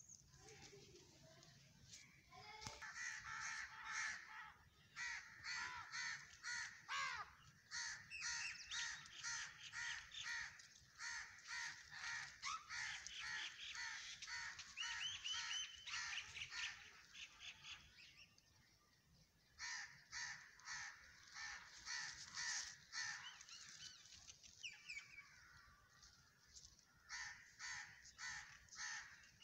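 Birds calling: a long run of short, repeated calls, about three a second, with a brief pause about two-thirds of the way through before the calls resume.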